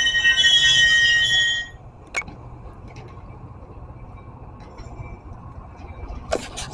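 Metra commuter train squealing as it brakes into the station, several high-pitched tones at once, cutting off abruptly a little under two seconds in. After that comes the low steady rumble of the standing train, with a sharp knock and then two quick knocks near the end.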